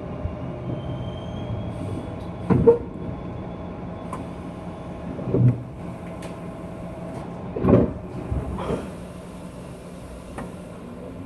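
Running noise of a JR West 201 series electric train heard from inside the motor car: a steady rumble and hum, with three heavy knocks from the wheels crossing the track, about two and a half seconds apart, and a lighter one after the last.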